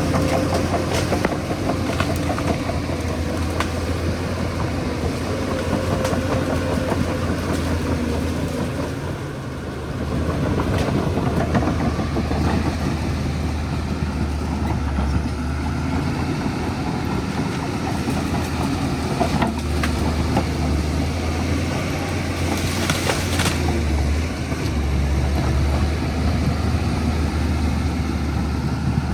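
Shantui DH17C2 crawler bulldozer's diesel engine running steadily, with clanking from its steel tracks. The engine eases off briefly about nine seconds in, then picks back up.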